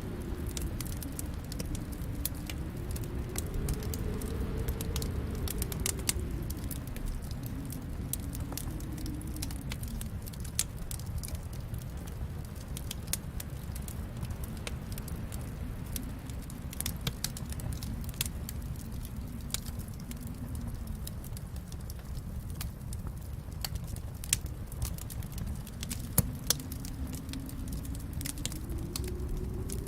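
Fireplace fire crackling, with irregular sharp pops over a low, steady rumble of flames that slowly swells and eases. A few louder pops stand out about ten seconds in and again near the end.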